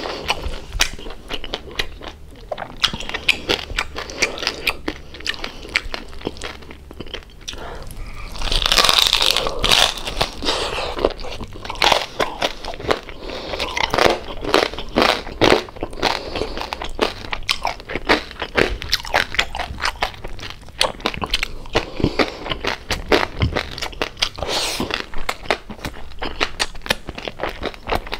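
Close-up crunching and chewing of crispy deep-fried pork belly (lechon kawali): rapid crackly bites and chews, loudest about nine seconds in.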